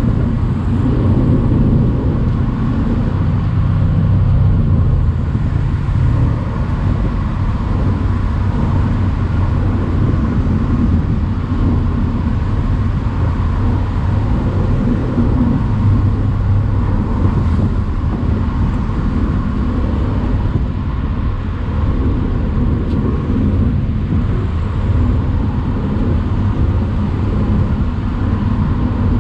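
Mercedes-AMG C63's 4.0-litre twin-turbo V8 pulling the car along a country road at a steady, moderate pace, its low engine note rising and falling slightly with the revs, over road and wind noise.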